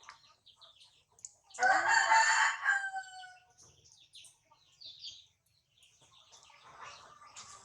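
A rooster crowing once, about a second and a half long and the loudest sound here, its tail falling off at the end. Faint high chirps come and go around it.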